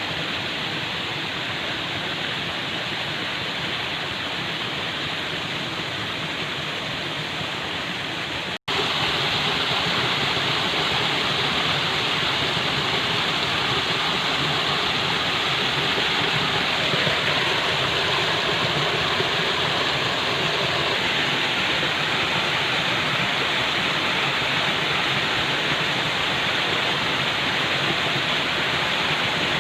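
Falling water: a steady, even rush. It drops out for an instant about eight and a half seconds in and comes back a little louder.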